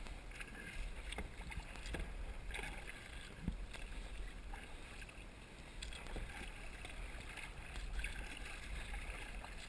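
Kayak on a slow river: faint water lapping and splashing around the boat, with scattered light clicks and knocks and a low steady rumble.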